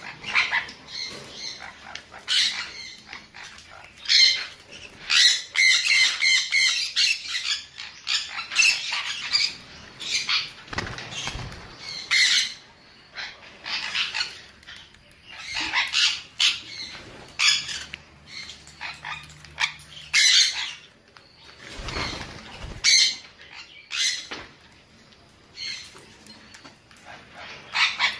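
Sun conure calling over and over with loud, shrill squawks and screeches, each call short and separated by brief gaps, with a quick run of calls a few seconds in. Two low thumps come midway and later.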